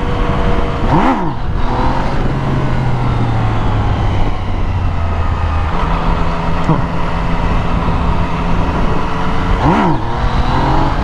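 Sport motorcycle engine running hard under throttle during a wheelie attempt, its pitch stepping up a couple of times, with steady wind noise over the microphone.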